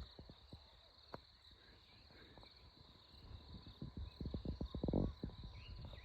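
Insects, crickets or cicadas, trilling steadily in a high band, with irregular soft knocks and clicks close to the microphone that come thicker about four seconds in.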